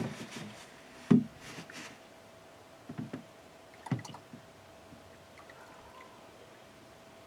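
A few knocks and clunks, the loudest about a second in, followed by a short hiss, then quiet with only a faint steady hum.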